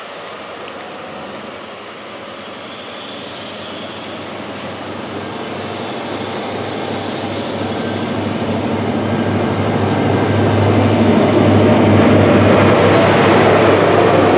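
InterCity 125 High Speed Train running through at speed: a steady rolling rumble of coach wheels on the rails, with brief high squeals a few seconds in. The noise builds throughout, and a deep diesel drone from the Class 43 power car at the rear grows loudest near the end as it draws close.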